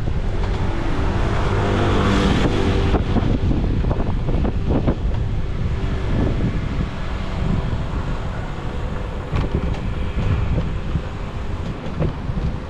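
Wind buffeting the microphone while riding a bicycle, over a steady low rumble of traffic; a faint engine tone runs under it for the first few seconds.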